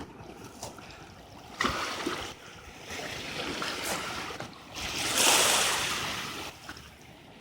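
Rushing river water heard outdoors, with short knocks and uneven wind noise on the microphone; a louder rush of hiss swells about five seconds in and fades.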